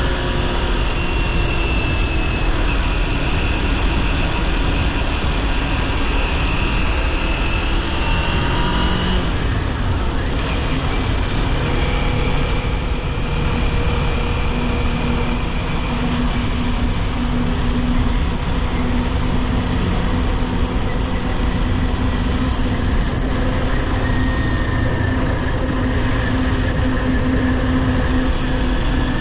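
Kawasaki Ninja 400's parallel-twin engine running under way, with heavy wind rush over the mic. The engine note climbs, breaks about nine seconds in, then holds a steadier, lower note.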